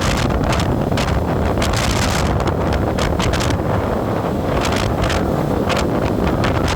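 Heavy wind buffeting the microphone of a moving vehicle, in quick irregular gusts, over a steady low road rumble.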